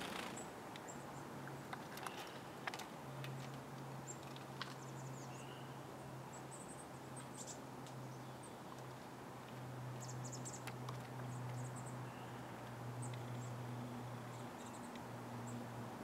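Small birds giving short, thin, very high chirps in scattered clusters, with a few sharp clicks and taps in the first few seconds. A steady low hum runs underneath.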